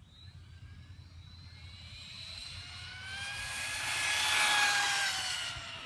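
Dromida 1/18-scale RC desert truck passing at speed on pavement at half throttle: a high electric-motor whine over tyre noise that swells as it approaches, peaks about four and a half seconds in, then fades, its pitch sliding slowly down as it goes by.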